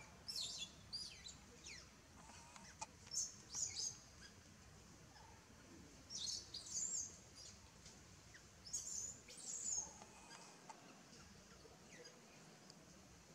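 Birds chirping in short, high-pitched bursts, about five clusters of quick falling notes, over a faint background hiss.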